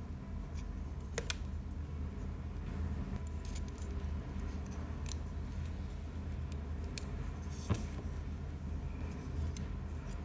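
Light metallic clicks and clinks of small parts or tools being handled, scattered irregularly, with the sharpest taps about a second in and near the end. A steady low hum sits beneath them.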